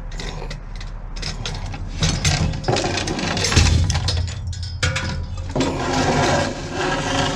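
Rummaging in scrap with a metal hook: irregular knocks, clatter and scraping of junk being pulled about, over a steady low hum.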